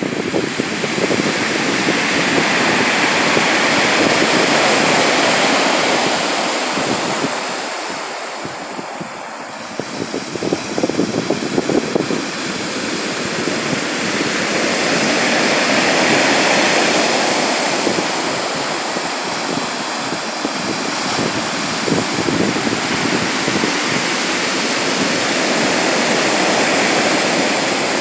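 Sea surf: waves breaking and washing ashore. The rushing swells and fades in slow surges about every eleven or twelve seconds.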